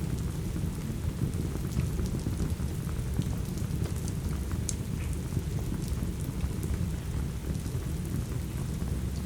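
Steady rain ambience with a dense low rumble, mixed with a crackling wood fire whose sharp pops and snaps come every second or so.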